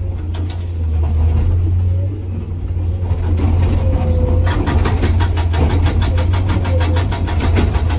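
Komatsu PC200 excavator's diesel engine running steadily. About halfway through, its hydraulic rock breaker starts hammering in a rapid, even chatter of blows.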